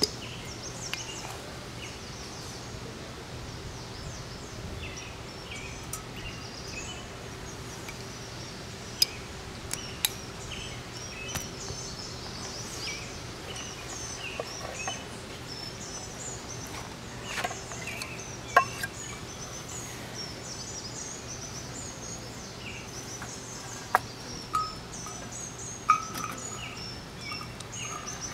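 Small birds chirping and singing, with a few sharp clicks and knocks here and there.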